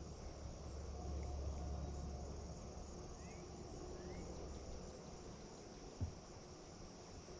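Steady high-pitched chirring of insects, with a low rumble underneath and a single sharp knock about six seconds in.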